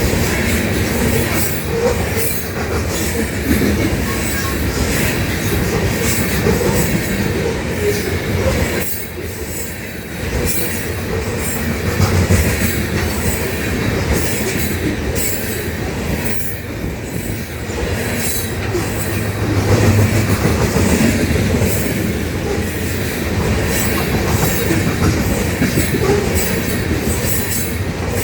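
Freight train rolling past, its wheels clacking steadily over the rail joints with some wheel squeal.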